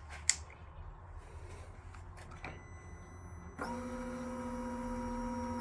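A click, then a steady electric whine for about two seconds that cuts off abruptly: the 2022 Indian Chief's fuel pump priming with the ignition switched on, the engine not running.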